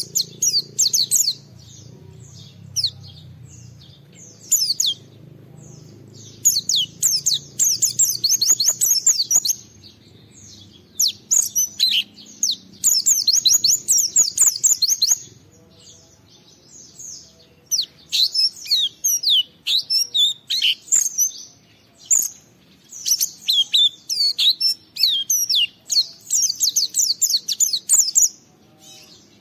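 White-eye (pleci) in full 'gacor' song: loud, rapid, high twittering phrases in bursts of a second or two, separated by short pauses.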